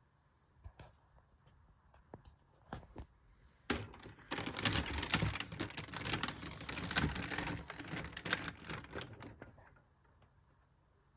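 Hard plastic toy robot parts being handled: a few separate clicks, then about six seconds of dense clicking and clattering that stops near the end.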